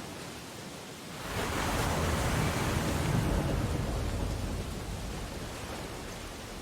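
Ocean surf on a beach: a steady wash of noise, then a wave breaks about a second in, swelling to a loud crash with a deep low end and washing back down over the next few seconds.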